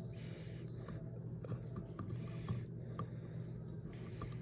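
A few faint, irregular clicks of a manual can opener being fitted and worked onto a can, over a low steady hum.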